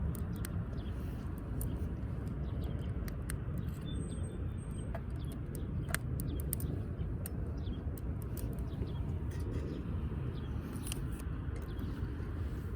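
Firewood burning in a wood-fire grill, crackling with scattered sharp pops over a steady low rumble.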